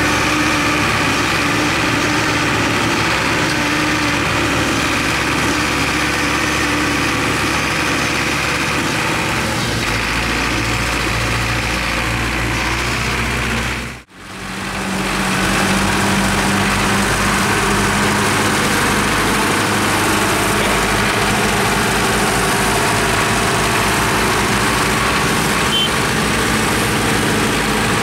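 Farm tractor diesel engine running steadily. The sound drops out briefly about halfway through, then returns with a slightly different low note.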